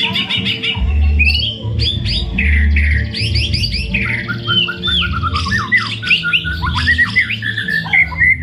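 White-rumped shama singing a long, varied song of whistled glides, slurred notes and quick chattering phrases, with imitations of other birds' calls worked in. It sings continuously without a break, in full song.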